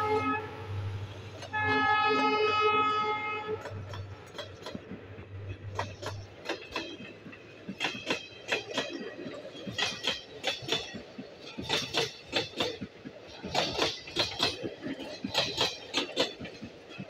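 Express train passing at speed. The diesel locomotive's horn ends a blast just after the start and sounds a second, two-second blast about one and a half seconds in. Then the coaches' wheels clatter past over the rail joints in quick, irregular clicks.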